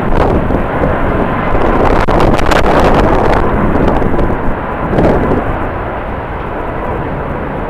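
Strong wind buffeting the microphone over the steady noise of jet airliner engines, with a faint steady whine in the engine noise.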